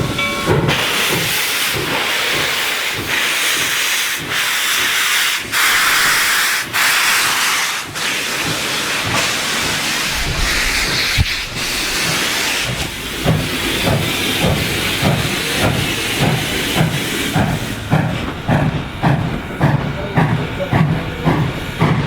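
Steam locomotive Reading & Northern 425: its whistle cuts off just after the start, then a loud hiss of steam for several seconds, then the exhaust beats start and settle into a steady chuff about twice a second.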